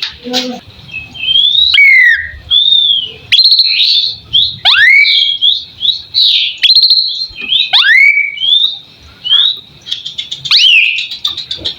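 Asian pied starling (jalak suren) singing: a varied, fast string of clear whistles and chirps, with a loud swooping whistle about every three seconds.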